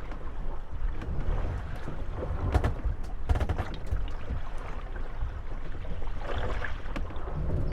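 Moored wooden gondolas rocking on choppy water, their hulls creaking and knocking against each other, with a run of knocks around the middle. Wind rumbles on the microphone throughout.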